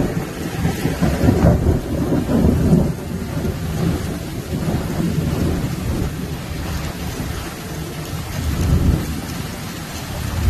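Thunderstorm: heavy rain with rolling thunder. The rumble swells in the first three seconds and again near the end.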